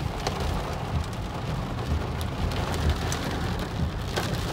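Rain falling on a car, heard from inside the cabin as a steady wash with scattered small ticks, over the low rumble of the car on a wet road.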